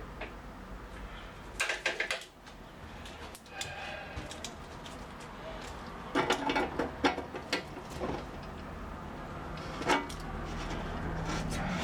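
Workshop handling sounds: scattered clicks and knocks of objects being picked up and set down, in three clusters, over a low steady hum.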